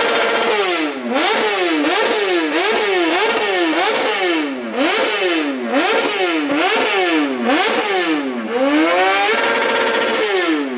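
Motorcycle engine revved up and down repeatedly, its pitch rising and falling a little under twice a second without dropping back to idle. It is held higher for a moment near the end.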